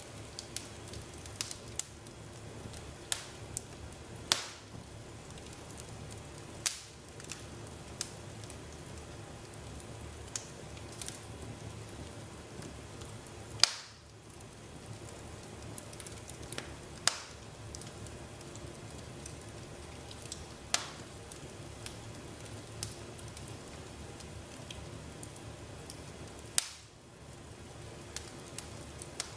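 Wood fire in a fireplace crackling, with irregular sharp pops every second or two over a steady low hiss; the loudest pop comes about halfway through.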